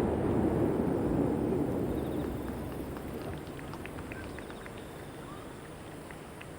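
Rolling echo of a fireworks display's bangs reverberating off the surrounding mountains, dying away gradually over about four seconds.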